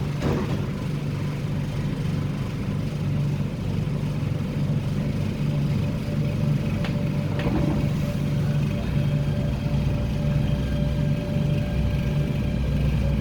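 Hong Kong MTR Tung Chung Line K-train, a Korean-built electric multiple unit, running along the line: a steady low rumble of the wheels on the track under a constant motor hum, with a few short clicks about seven seconds in.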